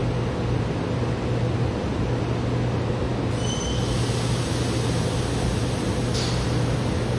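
GE Silverliner IV electric train in the underground station: a steady low hum, with a brief high squeal about three seconds in as a hissing noise rises, and a short burst of hiss near the end.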